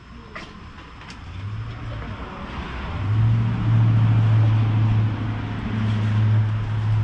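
Car engine running, a steady low hum that grows louder over the first three seconds and then holds. Two light clicks come about half a second and a second in.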